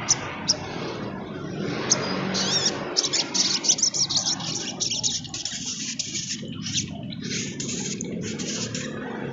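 Sunbird singing: a few sharp high chirps, then from about two and a half seconds in a fast, rapid twittering run of high notes that carries on almost to the end.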